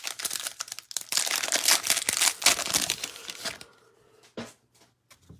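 Foil wrapper of a trading-card pack crinkling and tearing as it is opened, a dense crackle that dies down after about three and a half seconds, followed by a few faint rustles and a light tap.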